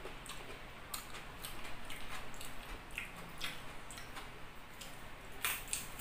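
A person chewing a mouthful of chicken liver adobo and rice close to the microphone, with scattered wet mouth clicks and smacks; a louder cluster of clicks comes a little before the end.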